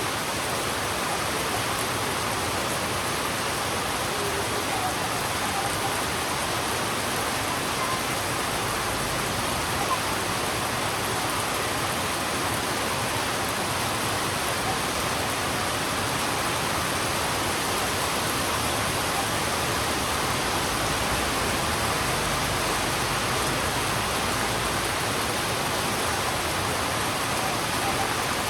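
Heavy rain falling steadily on a road, a dense even hiss with no breaks.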